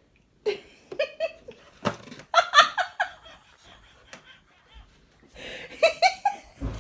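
People laughing in several short bursts of giggles and chuckles.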